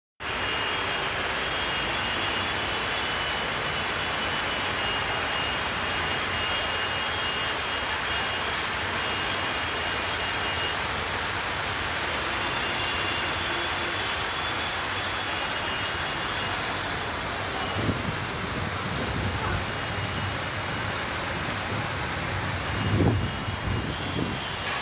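Heavy rain falling steadily, a dense, even hiss. A few low rumbles or thuds come near the end, the loudest about two seconds before it closes.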